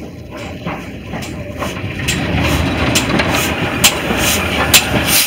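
Heritage railway carriage moving off, with a running rumble and sharp beats about twice a second, growing louder from about two seconds in.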